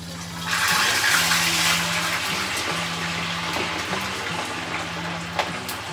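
Pork for lechon kawali sizzling in hot frying oil. The sizzle flares up suddenly about half a second in, then eases to a steady frying hiss with scattered sharp pops of spattering oil.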